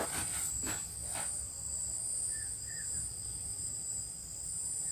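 Crickets trilling steadily at night, a continuous high-pitched shrill, with a few faint knocks in the first second or so.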